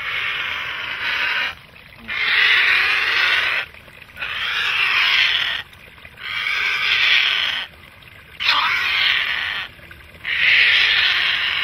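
Great blue heron giving harsh, drawn-out squawks, six in a row about every two seconds, as a cornered bird protesting while it is being caught.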